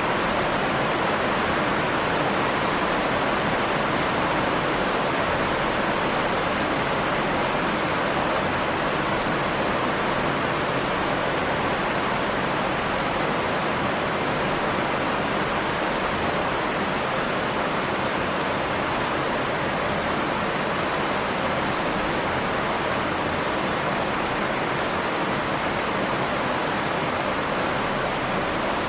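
Steady rain falling, an even hiss that does not change, with no single drops or thunder standing out.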